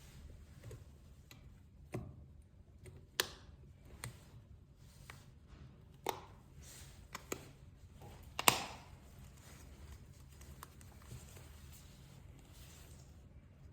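Scattered small clicks and taps of tools and phone parts handled on a repair bench, about half a dozen clear ones, the loudest about eight and a half seconds in.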